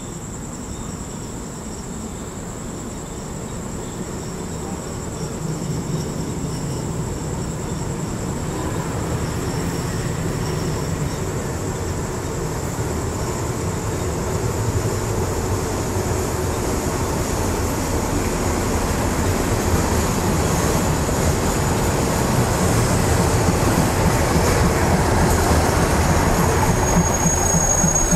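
Diesel railcar train approaching and pulling into the station, its engine rumble and running noise growing steadily louder. A thin high squeal comes in near the end as it slows. Crickets chirp steadily at first, then are drowned out by the train.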